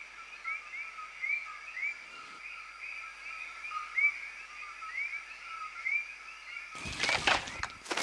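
Outdoor nature ambience: short rising chirping calls repeat steadily, a few a second. Near the end a sudden loud flurry of rustling cuts in over them.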